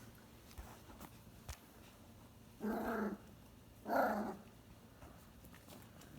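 A puppy giving two short barks about a second apart.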